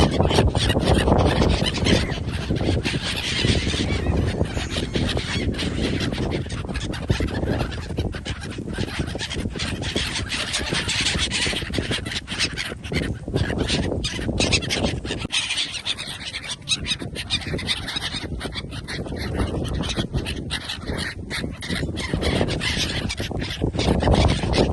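Geese honking and calling over a steady, rough background noise.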